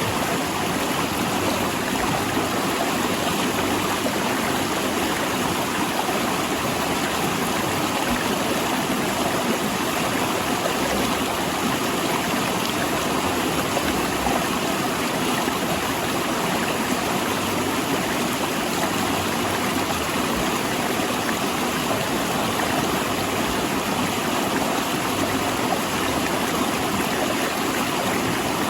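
Mountain river rushing over and between large rocks, a steady, unbroken water noise.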